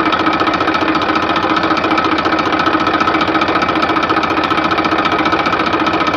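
Mini tractor toy's motor running steadily, with a fast even rattle and a steady whine.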